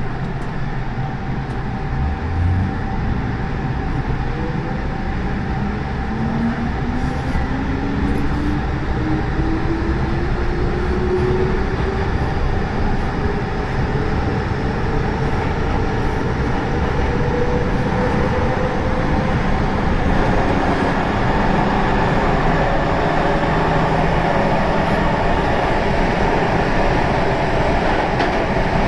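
MTR M-Train electric multiple unit accelerating on the Tsuen Wan Line: the traction motors give a whine that rises steadily in pitch over about a dozen seconds, after which the rumble of the train running at speed grows louder and steady. A short low thump comes about two seconds in.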